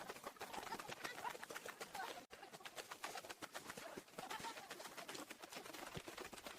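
Dove or pigeon cooing over a dense crackle of small clicks, with a sudden brief cut-out about two seconds in.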